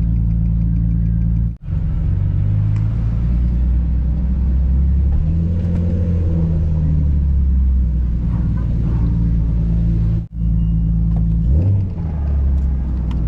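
Vehicle engine running at low revs: a steady low rumble whose pitch steps up and down a few times as it drives. The sound cuts out very briefly twice.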